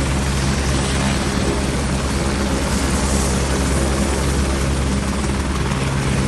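Helicopter rotor and engine running loudly and steadily, a continuous low thrum with a hiss over it.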